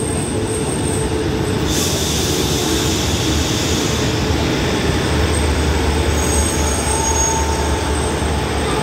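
Diesel railcar passenger train rolling into the platform and braking to a stop: a steady heavy rumble of engine and wheels, a hiss that starts suddenly about two seconds in, and a faint high brake squeal near the end.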